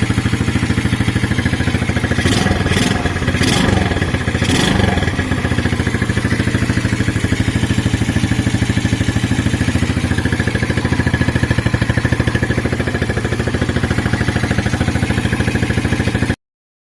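Rusi Gala motorcycle's small four-stroke engine idling steadily after a valve-clearance adjustment made to cure its hard starting. A few sharp clicks sound between about two and five seconds in, and the sound cuts off suddenly near the end.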